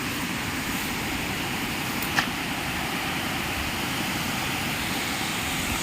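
Steady rushing noise, with one short sharp click about two seconds in.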